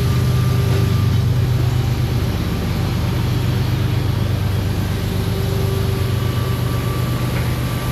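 Machinery running steadily with an even, low hum.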